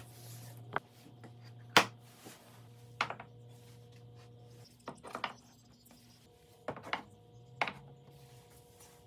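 A series of sharp knocks and clicks, about eight at irregular intervals with the loudest near two seconds in, over a faint steady hum.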